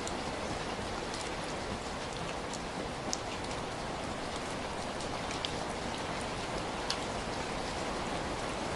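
Heavy rain falling steadily, a dense even hiss with scattered sharper drop impacts standing out here and there.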